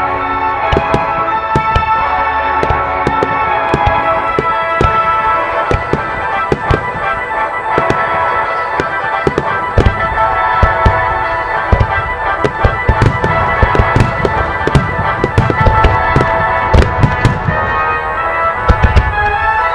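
Aerial fireworks shells bursting: many sharp cracks and crackles, with deep booms coming thicker from about halfway through, over music with long held notes.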